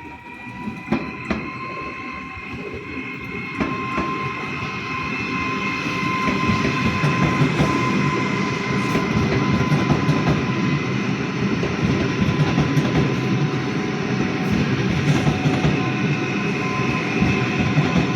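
Train passing close by, growing louder over the first several seconds and then holding, with wheels clicking over rail joints and a steady high whine running through.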